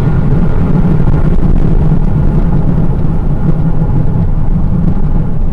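Steady vehicle noise: a loud, even low drone of engine and road with no breaks.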